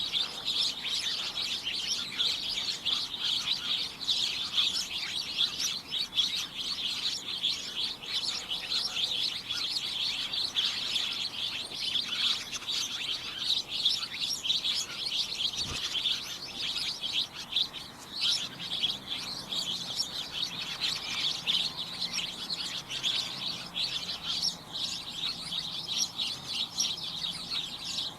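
A flock of small birds chirping continuously, many short overlapping high chirps in a steady chatter.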